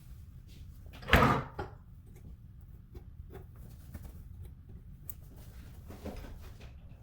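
One sharp, loud clunk of a hard object knocked or set down about a second in, followed by a smaller knock and scattered light clicks and taps of handling.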